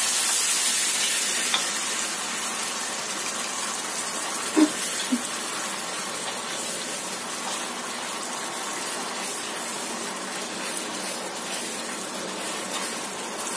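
Spice paste and sweet soy and oyster sauce sizzling in a hot wok as a spatula stirs it: a steady frying hiss. Two short knocks of a utensil against the wok about four and a half and five seconds in.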